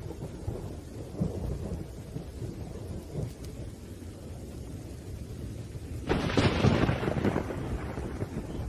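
Thunderstorm with rain: a low rolling rumble of thunder, then a sudden sharp thunderclap about six seconds in, the loudest sound, dying away over the next two seconds.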